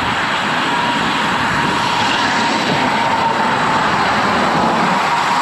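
Steady rushing noise of strong wind and road traffic heard from a moving road bicycle, with a faint steady whine running through it.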